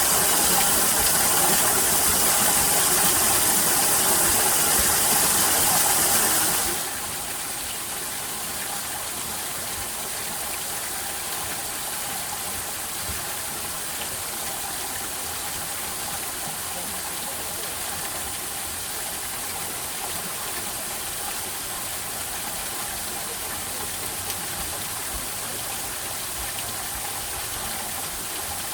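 Steady rushing of flowing water, like a stream or small waterfall. It is louder for about the first seven seconds, then drops suddenly to a quieter, even rush.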